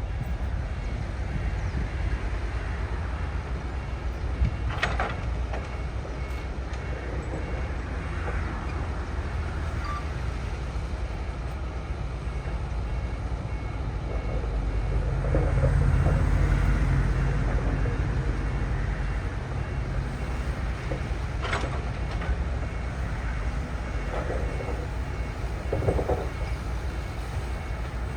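Diesel engine of heavy earthmoving machinery running steadily, swelling louder for a few seconds about halfway through as it works harder. A few sharp knocks sound over it.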